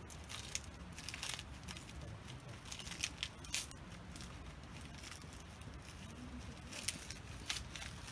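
Wood campfire crackling, with scattered sharp pops and snaps at irregular intervals.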